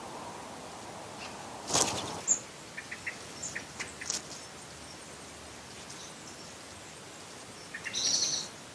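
Garden ambience with a steady hiss, short bird chirps and tweets about two to four seconds in, and a louder bird call near the end. A brief rustle comes just before the first chirps.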